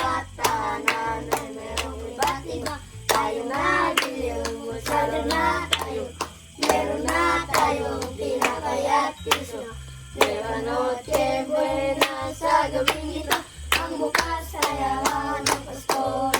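A group of children singing a Christmas carol, with a sharp beat of claps or percussion about two to three times a second and low steady notes underneath.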